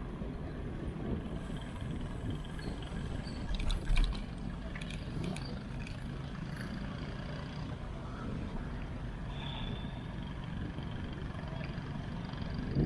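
Steady low rumble of riding along a road, with wind and vehicle noise, and a few brief clicks about four seconds in.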